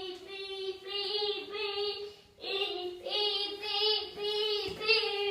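A toddler's voice holding a steady high note in pulses, the child making a beeping-truck sound, with a short break about two and a half seconds in before it starts again.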